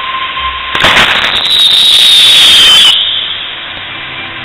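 A firework display shell going off: a sudden loud burst about a second in, then about two seconds of hissing and crackling with a whistle falling slightly in pitch, before it dies away.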